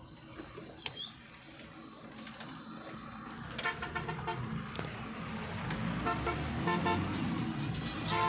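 Road traffic with vehicle horns honking in short repeated beeps, starting about three and a half seconds in. The traffic rumble and the honking grow louder toward the end.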